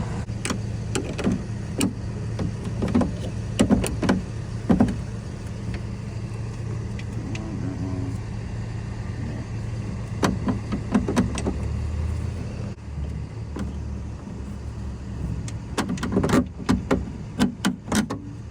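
Irregular sharp clicks and knocks of metal and plastic parts as a car's rear window regulator and motor are worked loose and pulled out of the door, coming in clusters and thickest near the end. A steady low hum runs beneath and changes about two thirds of the way through.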